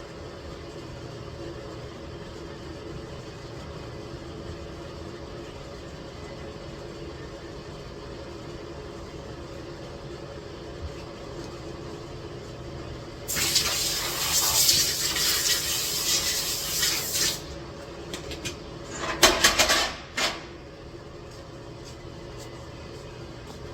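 Steady low mechanical hum, broken by a loud rushing hiss lasting about four seconds and, a couple of seconds later, a second shorter hiss.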